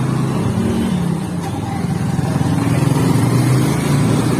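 Motorcycle engine running steadily, with a constant rushing noise of wind and road under it.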